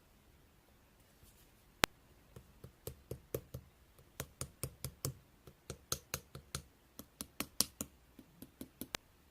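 Slime being worked by hand, giving an irregular run of sharp clicks and pops, several a second. One lone click comes about two seconds in, the run follows, and it stops shortly before the end.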